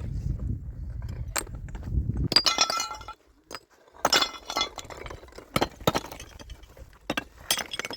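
Hard objects clinking and clattering: a low rumble for the first two seconds or so, then a ringing clatter, a brief hush, and a run of sharp knocks and clinks.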